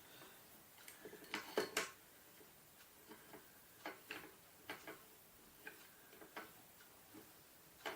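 Faint, irregular light clicks and clinks of a hand tool and screws on a mountainboard's metal truck as the screws are lined up and turned in, with a louder pair of clicks about one and a half seconds in.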